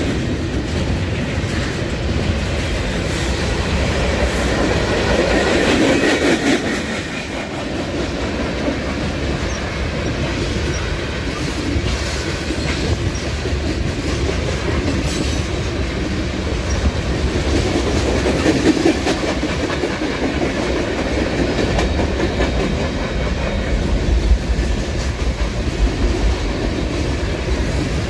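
Freight train cars rolling past: a steady rumble of steel wheels on the rails with a running clickety-clack as the wheels cross rail joints.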